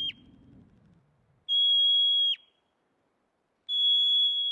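Long, steady, high whistle-like tones, each just under a second, repeated about every two seconds, each ending with a quick drop in pitch.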